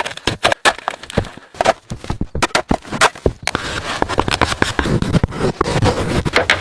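Wood being worked by hand: a run of sharp knocks and cracks that turns into continuous crackling and crunching, like branches or sticks splintering, about three and a half seconds in.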